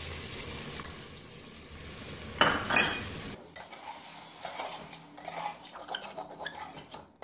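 Meat and bitter gourd sizzling in an aluminium pot as yogurt is added, with a louder flare of noise between two and three seconds in; then a metal spoon stirring and scraping against the pot in scattered clicks.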